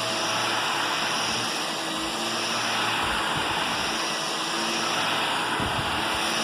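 Vacuum cleaner running steadily: a constant motor whine over the rush of air, swelling and easing slightly in level.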